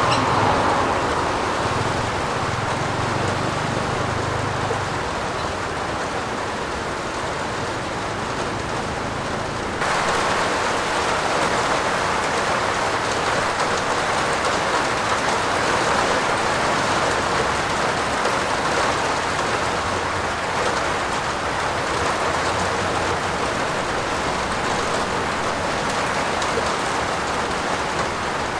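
Steady heavy rain, a dense even hiss. About ten seconds in it abruptly turns louder and brighter, then runs on evenly.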